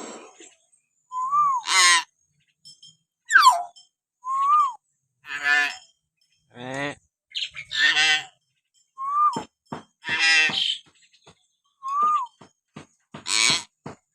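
Common hill myna calling: short rising-and-falling whistles alternate with loud, harsh nasal calls, about one call every second or so, with a few sharp clicks between them.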